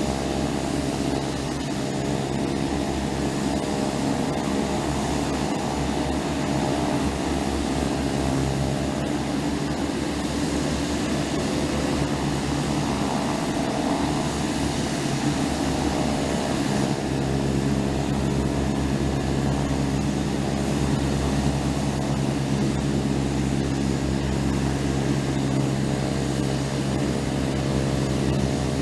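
Propeller airplane engine running at a steady speed: a constant low drone whose pitch does not change.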